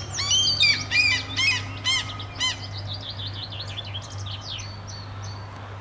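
Seagulls yelling at being fed: a fast run of loud, arching cries in the first couple of seconds, then fainter repeated calls that thin out toward the end. This is the noisy feeding call that draws other gulls in.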